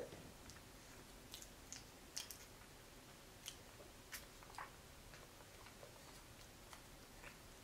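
A small child chewing a soft bread sandwich, heard only as faint, scattered mouth clicks and smacks against near silence.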